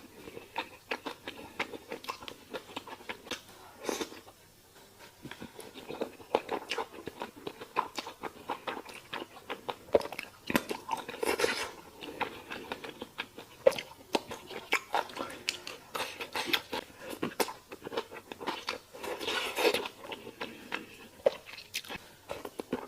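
Close-miked eating of stir-fried rice noodles and chicken: steady, irregular biting and chewing with crunchy bites and wet mouth clicks.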